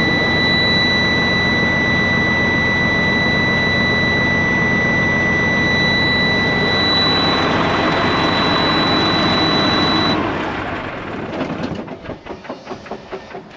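A Detroit diesel in a 2007 Freightliner Columbia day cab running steadily, with a steady high whine over the engine noise. It is shut off about ten seconds in and runs down over a second or two.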